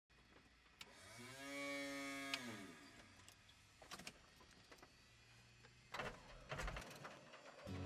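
One long, low animal call, rising then falling in pitch, followed by a few faint clicks.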